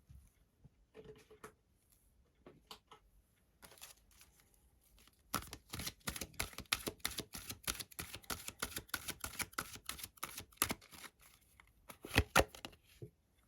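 Tarot cards being shuffled and handled by hand: a few soft scattered clicks, then a fast run of crisp card clicks from about five seconds in to about eleven, and a couple of louder slaps near the end.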